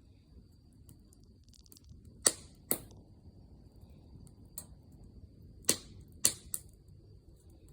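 Wood fire crackling, with sharp pops: two loud ones close together a little over two seconds in, and three more about six seconds in, over a faint low rumble of the burning fire.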